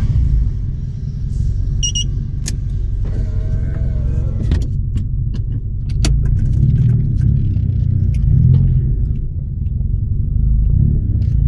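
Proton Saga's engine running as the car moves slowly, a steady low rumble heard from inside the cabin, with a few clicks and knocks. Its power steering belt has just been re-tightened to cure a belt noise.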